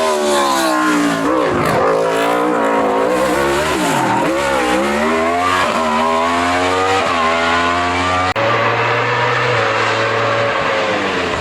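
Hill-climb race car engine at full throttle, its pitch climbing and then dropping sharply at each upshift, three times over. About eight seconds in the sound cuts abruptly to a steadier engine note.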